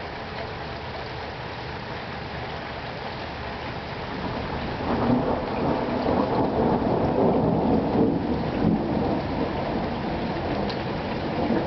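Steady rain falling, with a rolling thunder rumble that swells up about four seconds in, is loudest in the middle and dies away near the end.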